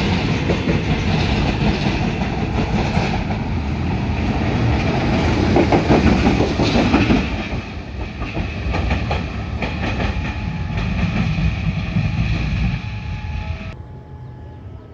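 Train passing close by, its wheels clattering over the rails; the noise swells and then eases off near the end as it moves away.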